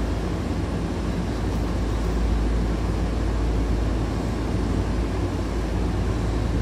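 Tokyu 8500 series electric commuter train under way, heard from inside the car: a steady running rumble of wheels on rail and the running gear, holding an even level.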